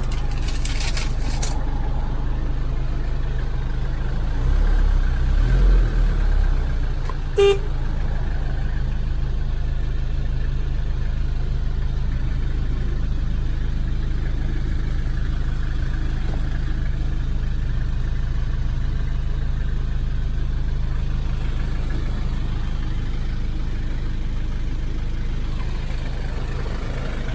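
Nissan TD27 naturally aspirated four-cylinder diesel idling steadily, the low engine sound swelling briefly around five seconds in. A single short horn beep sounds about seven seconds in.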